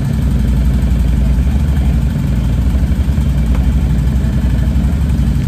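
ATV engine running steadily while riding, a low, continuous rumble.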